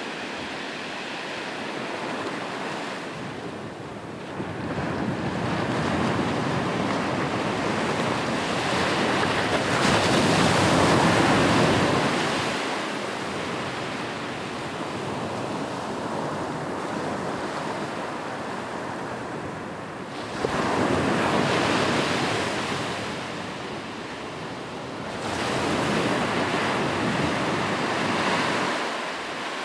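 Sea waves breaking and washing on the shore, the surf noise swelling and falling in slow surges, with the biggest swell a little before halfway through and two more later on.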